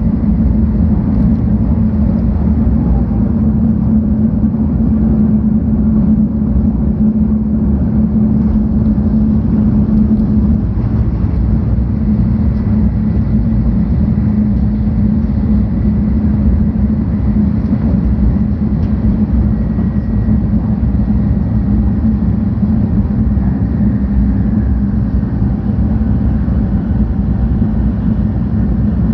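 A 700 series Shinkansen's running noise heard inside the passenger cabin: a steady rumble with a strong low hum and a faint high whine, with no breaks.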